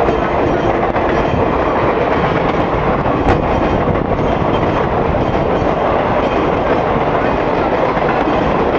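Express train speeding through a station, a steady loud rush of wheels on rails with clickety-clack, and one sharp clank about three seconds in.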